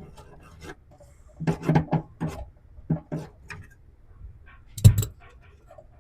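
Scattered knocks and clunks of hand tools and car body parts being handled while a 1966 Mustang is taken apart, the loudest a single sharp knock about five seconds in.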